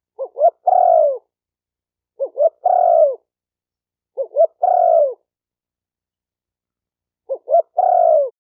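Spotted dove cooing in four repeated phrases. Each phrase is two short notes and then a longer coo that drops in pitch at its end, about every two seconds, with a longer pause before the last phrase.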